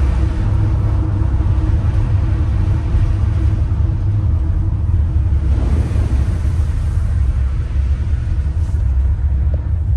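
Steady low rumble of a vehicle driving, heard from inside the cab, with a brief swell of rushing noise about six seconds in.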